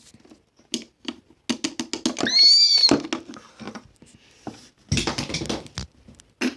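Plastic toys being handled, with scattered clicks and knocks and a short high-pitched squeal about two seconds in.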